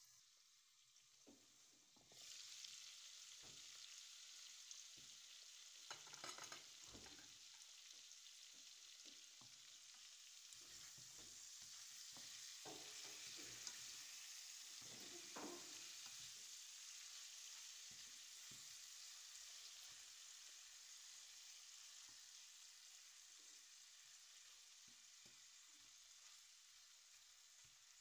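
Seasoned chicken wings sizzling in oil in a pan; the sizzle jumps up suddenly about two seconds in, when the glass lid comes off. A wooden spatula scrapes and turns the wings a few times in the middle.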